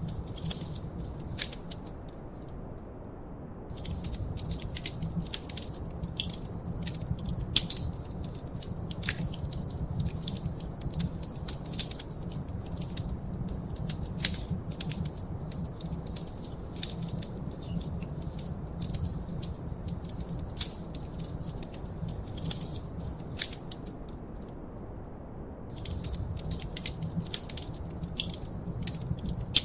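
Wood fire crackling in a fireplace: a steady run of sharp pops and snaps over a low, even rumble. The crackling drops out briefly twice, about three seconds in and again near the end.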